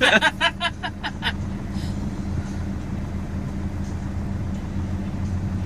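Car engine idling steadily, heard from inside the car's cabin. A short burst of a person's voice is heard in the first second.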